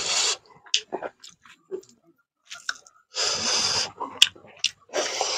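Close-up chewing and mouth sounds of a person eating rice and fish curry by hand, with short wet clicks between three louder bursts of noise, at the start, a little past the middle and at the end.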